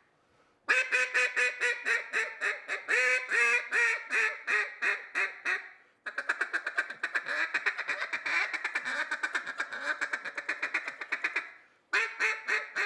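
Duck call blown by a caller: a string of loud, evenly spaced quacks, then a long run of fast, short notes, and a new string of quacks starting near the end.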